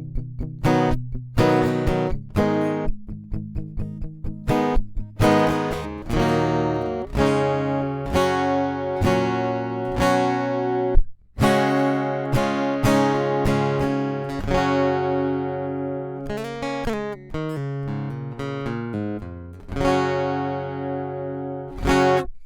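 Strinberg SD300 acoustic guitar being played solo: a run of plucked notes and strummed chords ringing on, with a sharp accent and a brief stop about halfway before the playing resumes and ends on a final chord.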